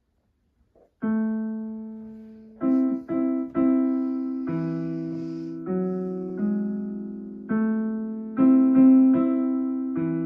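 Donner DDP-60 digital piano played slowly: about a second in, a first note sounds and rings out, followed by a slow line of single notes and two-note chords, each struck and left to fade.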